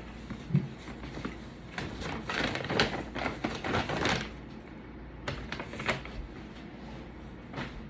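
Small clicks and a rapid clatter of handling noises, densest from about two to four seconds in, with a few separate clicks after.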